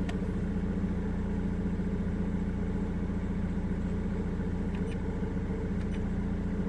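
Car engine idling steadily, heard from inside the cabin, with the audio system silent.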